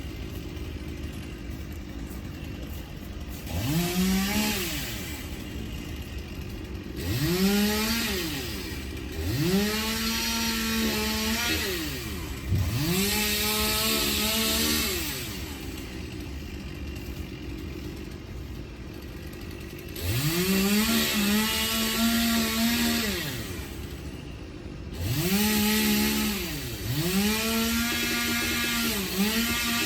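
Two-stroke chainsaw revving up in about seven bursts, each rising quickly to full speed, holding for a second or three, then dropping back to idle.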